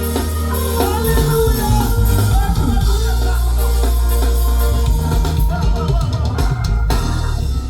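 A band playing with drum kit, bass and a singing voice; the music breaks off near the end.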